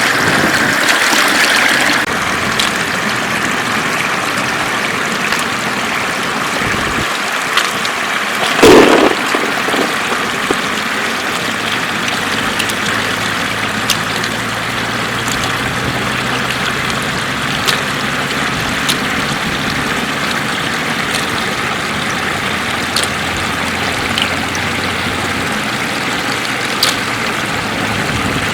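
Floodwater running steadily, with scattered small clicks and one brief loud thump about nine seconds in.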